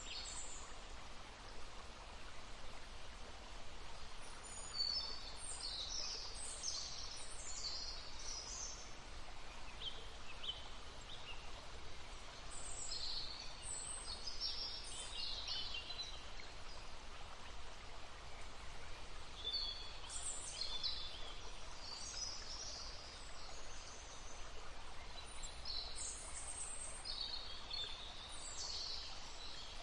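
Songbirds singing in several bouts of quick high chirps, over the steady rush of a babbling stream.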